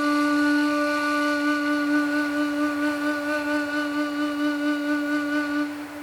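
A single long held woodwind note, flute-like, with a gentle regular waver, over a soft wind-like hiss. The note stops near the end and leaves a brief fading tail.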